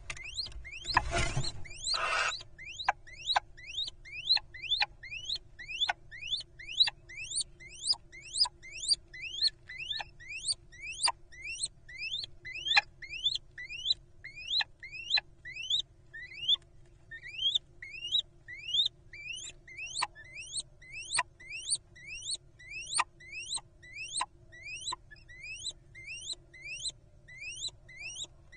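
Little owls giving a long run of short, high, rising squeaks, about two a second, with a faint steady hum underneath. A brief loud rush of noise comes about a second in.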